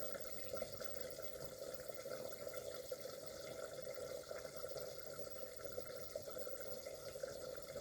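A pot on the stove bubbling steadily, a soft even watery noise with small crackles.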